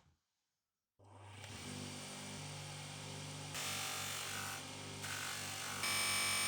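A small electric power tool switches on about a second in and runs steadily, growing louder in two steps.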